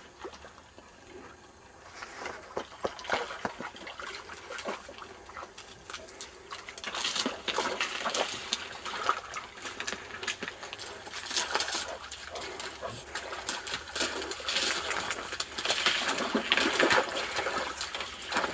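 Irregular splashing steps through shallow water, getting louder from about six seconds in, with scattered clicks.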